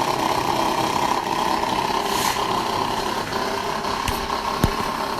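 Coffee machine running with a steady mechanical hum while it makes coffee and milk at the same time, with a few light clicks in the second half.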